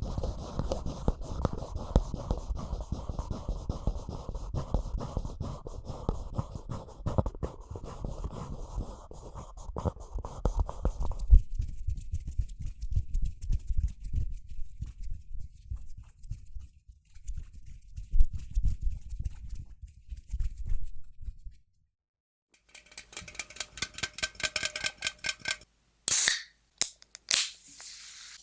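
Close-miked ASMR trigger sounds. A long stretch of dense, crackly scratching and brushing runs for about twenty seconds, thinning out about halfway. It stops with a brief silence, and a different trigger follows with a few sharp loud bursts near the end.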